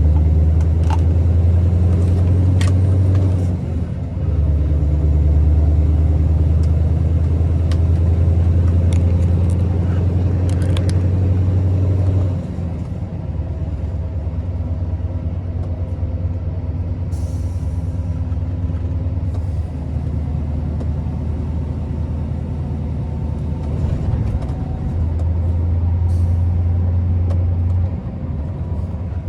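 Scania R650 truck's 16-litre V8 diesel engine running with a deep, steady drone while driving. It pulls harder in stretches and eases off about twelve seconds in, then pulls again near the end. A short hiss comes about seventeen seconds in.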